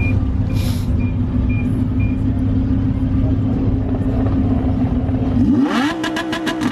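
Car engine running at a steady low idle, then revved hard near the end, its pitch rising and holding high with a quick string of sharp cracks from the exhaust.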